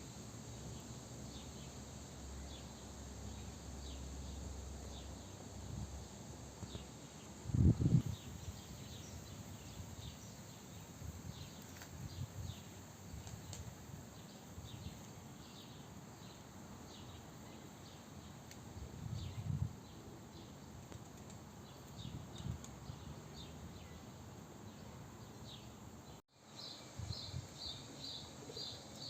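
Outdoor ambience with faint, scattered high bird chirps and a few low thumps, the loudest about 8 s in. After a cut near the end, a quick run of high chirps, about four a second.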